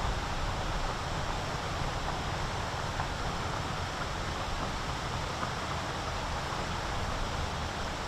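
Steady outdoor wind noise on the microphone, a low, fluctuating rush with no other distinct sound.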